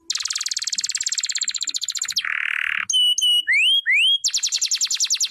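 Domestic canary singing: a fast, rolling trill for about two seconds, a short harsh buzz, a few whistled notes sliding upward, then another rapid trill of falling notes near the end.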